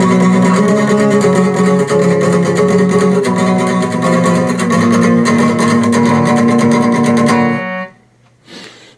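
Instrumental ending of a song: guitar strumming chords, which stops abruptly about seven and a half seconds in, leaving it quiet.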